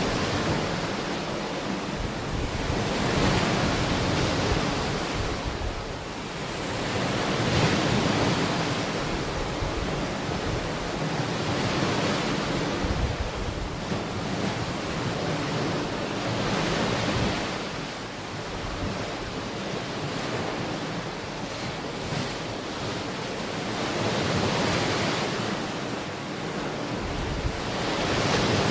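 Ocean waves breaking and washing onto the shore in slow swells every four or five seconds, with a steady surf hiss between them.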